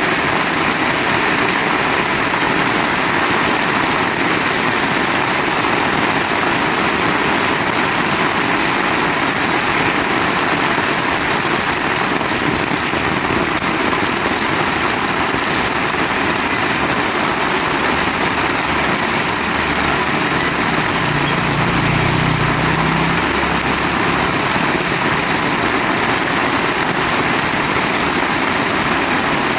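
Heavy rain falling steadily, a dense even hiss. A brief low rumble joins it about three quarters of the way through.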